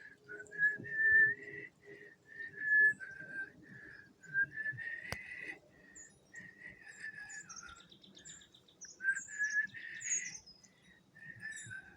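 A person whistling a string of short, breathy, mostly level notes to call birds to a feeder, with faint high bird chirps mixed in, more of them in the second half.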